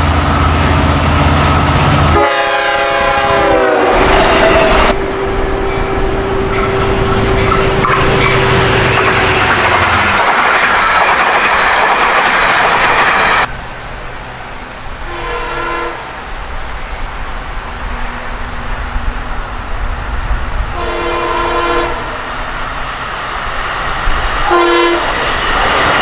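Long Island Rail Road M-3 electric multiple-unit train passing close by at speed, its horn chord dropping in pitch as it goes past and then holding a lower note, with the wheels clattering over the rails. The passing noise cuts back about halfway through, and three short horn-like blasts follow, fainter.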